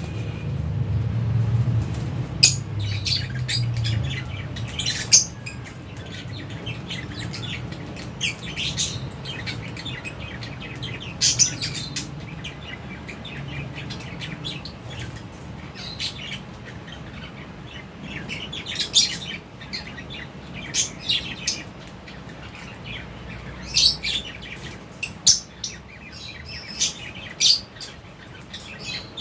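A flock of lovebirds chirping, with many short, sharp, high calls overlapping and coming in irregular bursts, over a low steady hum.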